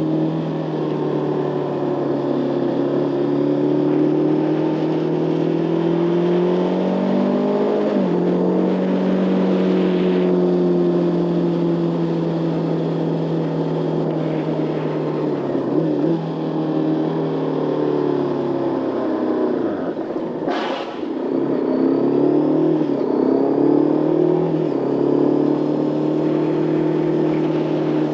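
Motorcycle engine running under way. Its pitch climbs and breaks off about eight seconds in, as at a gear change. Around twenty seconds in the revs fall away, a brief sharp noise sounds, and the engine then pulls again.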